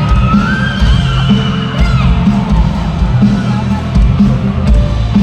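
Loud live band music with a heavy low beat, a singing voice sliding up in pitch near the start, and the crowd yelling and singing along.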